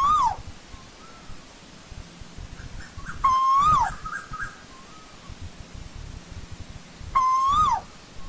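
Asian koel (tu hú) calling: three loud calls about four seconds apart. Each is a short held note that lifts slightly and then drops away sharply. Fainter, softer notes come between the calls.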